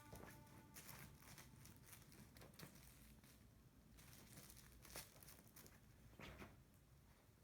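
Near silence, with faint scattered small clicks and rustles.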